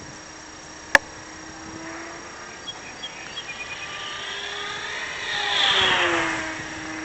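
Electric motor and 9x9 propeller of a Multiplex Blizzard RC model plane buzzing as it flies past, growing louder to a peak about six seconds in, then dropping in pitch as it goes by. A single sharp click about a second in.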